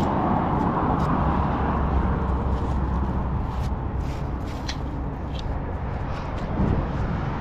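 Road traffic going past: a vehicle's tyre and engine noise that fades away over the first few seconds, over a steady low rumble. A few faint short clicks come in here and there.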